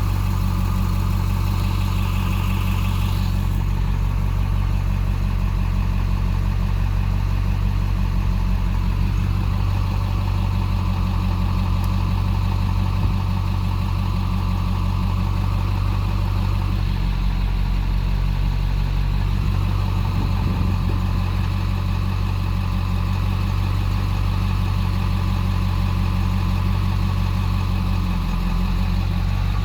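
Ford 7.3L V8 diesel engine idling steadily, running with the misfire that the owner reports when the P1748 code is not set.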